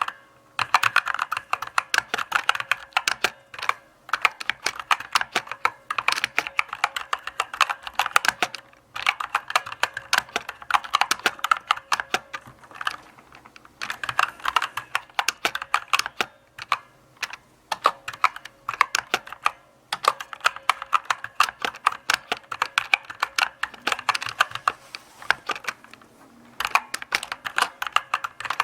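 Typing on a mechanical keyboard: runs of quick key clicks and clacks, broken every few seconds by short pauses.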